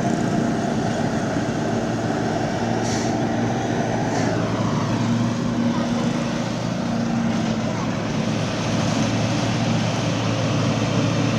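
Heavy vehicle engine running steadily amid road traffic noise, with a brief falling whine about four seconds in.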